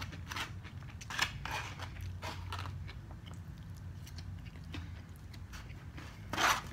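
Close-miked chewing with crisp crunches and mouth clicks, a person eating takeout food, with a louder cluster of crunches near the end.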